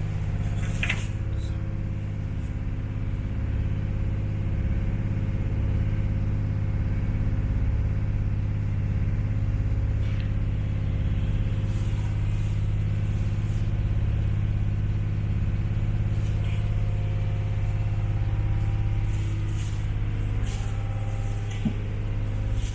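Tour boat's engine running steadily, a low even drone that holds the same pitch throughout.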